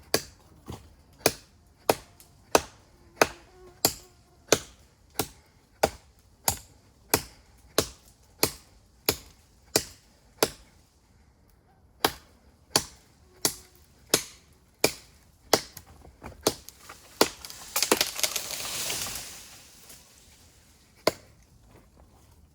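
Knife blade chopping into a standing tree trunk, sharp blows about one and a half a second, with a short pause midway. About three-quarters through the blows give way to a longer crackling, rustling noise lasting a couple of seconds, then one more blow.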